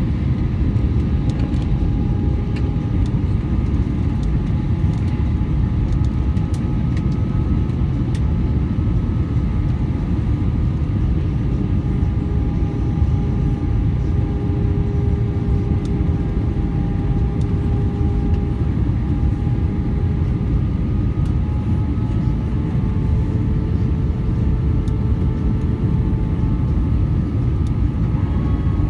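Steady rumble of an Airbus A320's engines and airflow heard inside the passenger cabin, with faint steady engine whines that drift slightly in pitch.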